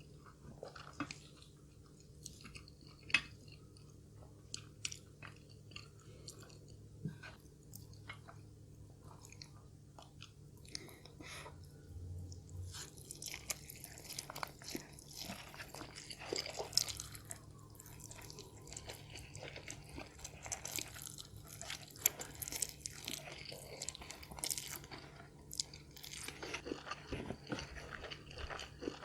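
A person chewing and crunching food close to the microphone, with many short crisp crunches that come thicker in the second half.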